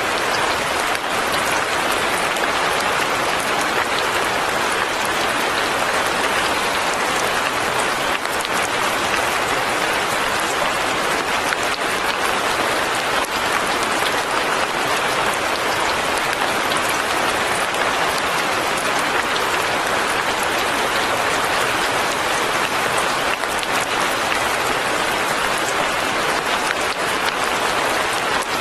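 Light rain falling steadily, an even, dense patter that neither builds nor pauses.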